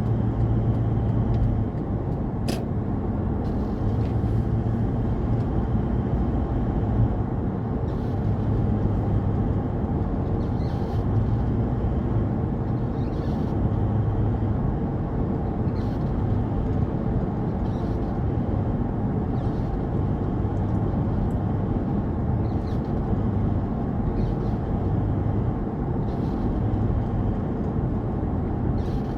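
Car driving at speed: a steady low rumble of road and wind noise that swells and eases every second or two, with a faint sharp click about two and a half seconds in.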